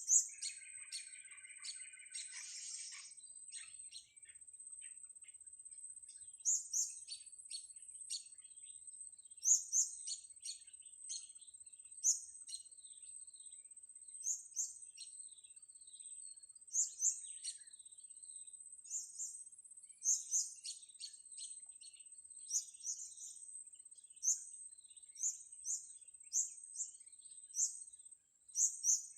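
Blue-crowned hanging parrots giving short, very high-pitched chirps, often in quick pairs, every second or two. A steady high whine runs underneath, and a lower buzzy call sounds briefly about a second in.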